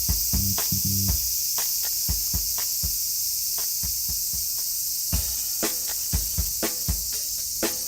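Insect chorus, a steady high-pitched shrilling, with sharp ticks repeating several times a second, coming faster in the second half.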